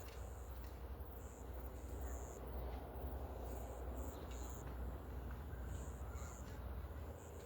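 Birds calling, with short high chirps at irregular intervals over a steady low rumble.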